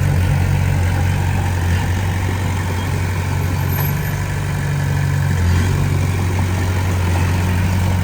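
Diesel engine of heavy earthmoving machinery running at a steady speed, a deep, even drone.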